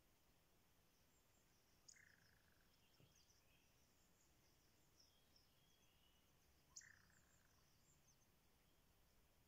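Very faint high chirps of small birds, with two short, slightly louder calls about two seconds in and near seven seconds.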